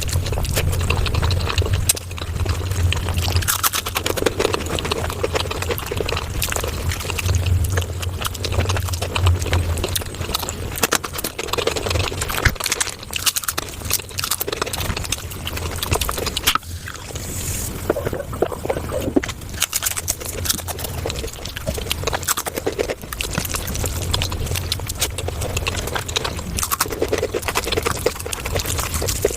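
Close-miked eating of palak paneer, sped up about five times: a dense, wet, continuous run of chewing and mouth-smacking clicks.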